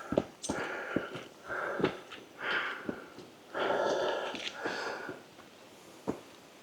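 A person breathing hard in a run of loud, hissy breaths, with a few footsteps clicking among them; the breaths die away near the end.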